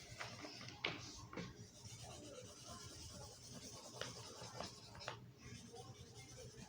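Sharpie marker scratching and squeaking on notebook paper, faint, with a few short taps and clicks.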